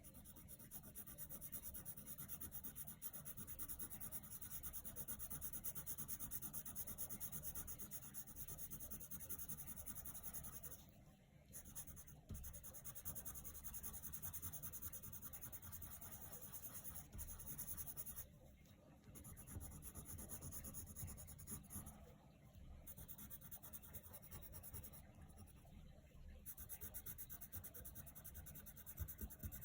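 Coloured pencil scratching across paper in continuous colouring strokes, stopping briefly several times as the pencil lifts.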